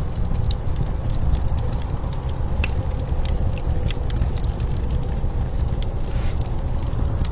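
Wood fire crackling with scattered sharp pops, over a steady low rumble of blizzard wind.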